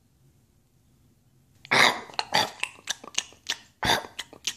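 Someone biting into a crisp Pink Lady apple about a second and a half in, then chewing it with quick crunches, about three or four a second.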